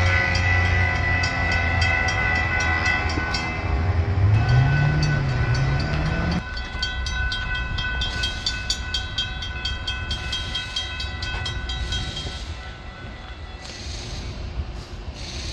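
A train running past a road grade crossing while the crossing's warning bells ring rapidly. The train's heavy rumble rises in pitch and cuts off abruptly about six seconds in, leaving the bells ringing.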